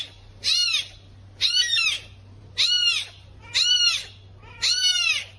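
An animal calling five times at about one call a second, each a short high cry that rises and falls in pitch.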